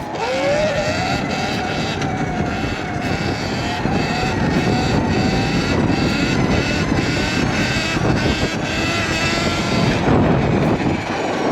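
Sur-Ron electric dirt bike's motor whining as it is ridden, its pitch rising as it speeds up near the start and then wavering with the throttle, over a steady rush of wind and road noise.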